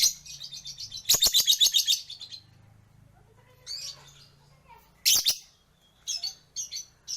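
Lovebird chattering in shrill, rapid trills (the 'ngekek' song): a long rattling burst about a second in, then shorter calls and a string of quick chirps.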